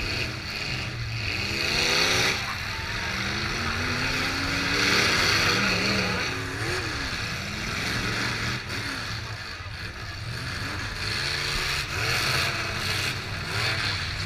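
Demolition derby car engines running and revving, their pitch climbing and falling several times over a steady low engine drone.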